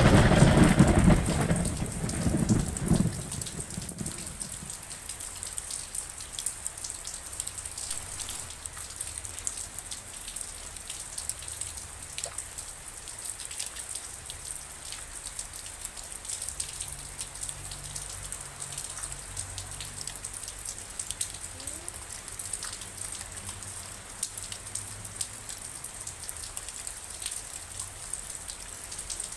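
A loud clap of thunder at the start, rumbling away over the first three or four seconds, then steady rain with many separate drops ticking.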